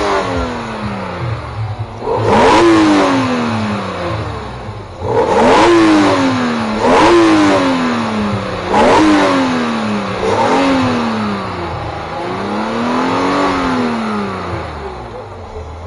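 Car engine being revved repeatedly: about six sharp blips, each climbing quickly and falling back toward idle, then a slower rise and fall near the end.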